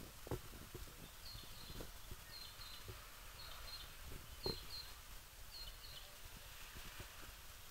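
A bird repeating a short, high double chirp about once a second, five times, over faint outdoor background noise. Scattered low knocks run underneath, the loudest about four and a half seconds in.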